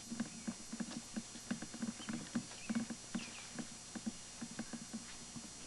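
Footsteps of a person walking outdoors while filming: a quick, irregular run of soft steps several times a second.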